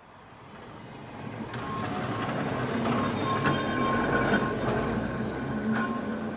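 A steady mechanical rumble swells in over the first two seconds and then holds, with thin high squealing tones running through it and a few sharp clicks.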